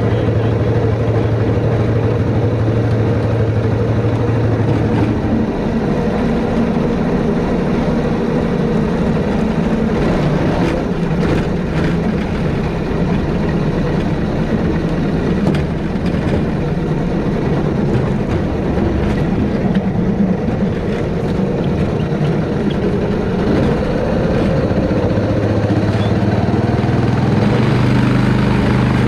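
Predator small engine on a homemade jet drive, running continuously with its chain driving the jet pump directly. Its pitch shifts about five seconds in and settles back near the end.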